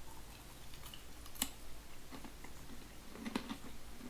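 Someone biting into and chewing crunchy honey wheat pretzel sticks: a sharp snap about a second and a half in, then faint, irregular crunching near the end.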